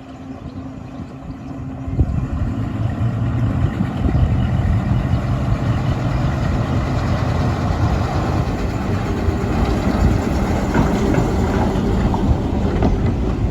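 Class 03 diesel shunter's Gardner eight-cylinder diesel engine running, getting louder about two seconds in and again about four seconds in, as though opening up, with a few short clicks near the end.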